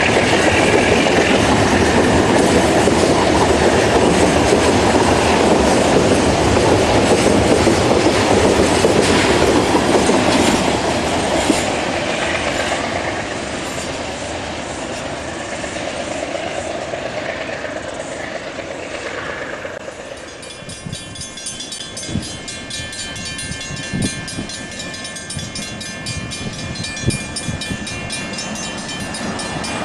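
Container freight wagons rolling past on jointed rails with a rhythmic clickety-clack, fading as the train draws away. About twenty seconds in, the sound changes to the quieter steady hum of approaching diesel locomotives, with a few sharp clanks of wheels over the points.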